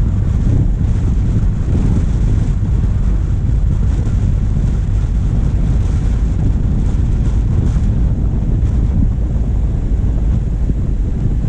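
Wind buffeting a bonnet-mounted camera's microphone over the steady low rumble of a diesel engine driving along.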